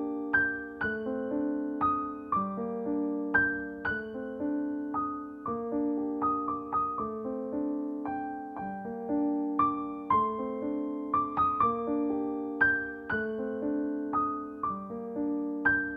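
Soft piano music: a gentle melody of sustained, slowly decaying notes over a repeating accompaniment.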